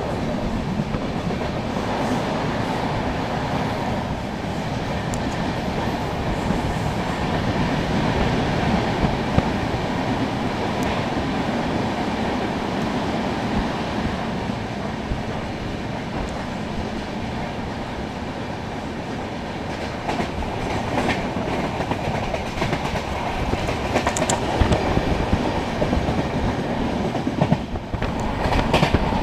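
Indian Railways Humsafar Express LHB coach running at high speed: a steady rumble of wheels on the rails, with a few sharp clicks as the wheels cross rail joints.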